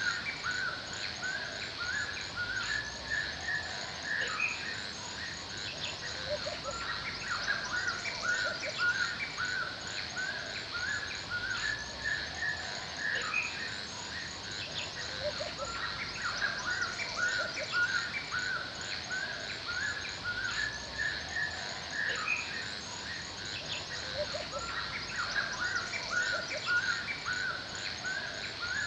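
Forest ambience: several birds singing and calling in short repeated phrases over a steady, high-pitched chirring of insects with a fast, even pulse.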